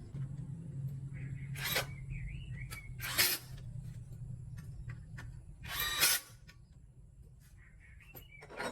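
Four short noise bursts a couple of seconds apart, over a low steady hum, with birds chirping in the background.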